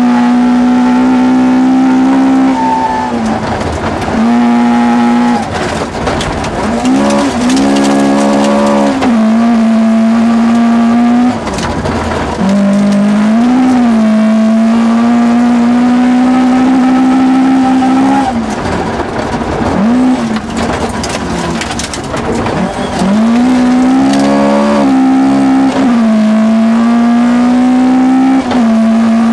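Rally-prepared Toyota Corolla GT 1600's 1.6-litre four-cylinder engine, heard from inside the cabin, held at high revs under full throttle. About six times the revs drop briefly and climb again as the driver lifts and changes gear, some with a quick blip.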